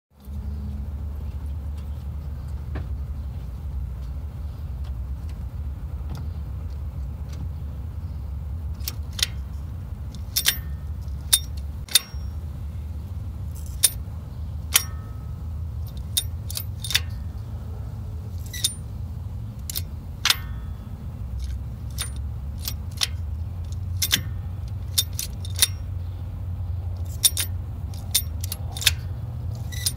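2006 Hyundai Elantra's four-cylinder engine idling steadily, with irregular sharp metallic clicks and rattles from about nine seconds in. This is the strange clutch noise of a damper spring that has failed and separated from the clutch.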